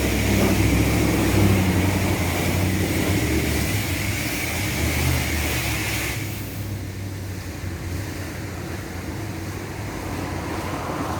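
Car-wash pressure wand spraying water in a steady hiss that cuts off about six seconds in, leaving a low hum.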